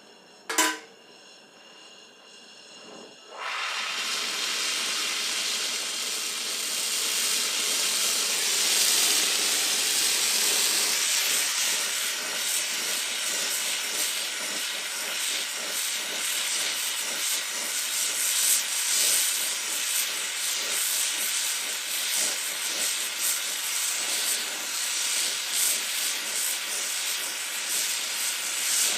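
A sharp click, then about three seconds in a brazing torch lights and burns loudly and steadily as it heats a copper HVAC line joint for silver brazing.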